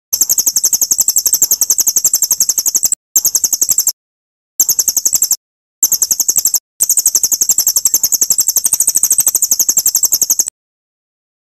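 A recorded songbird masteran track for training white-rumped shamas: a rapid, even trill of high thin chirps, about ten a second, in several stretches that stop abruptly with short silent gaps between them, as in an edited loop.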